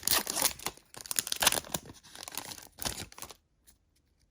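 Foil booster pack wrapper of Yu-Gi-Oh trading cards being torn open and crinkled, a dense crackling that stops about three and a half seconds in.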